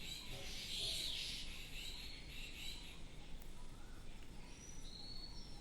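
Faint, scattered high chirps of birds over a steady low background hiss.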